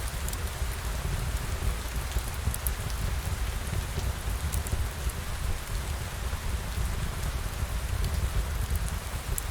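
Steady rain falling, with a deep rumble underneath and scattered light drop ticks.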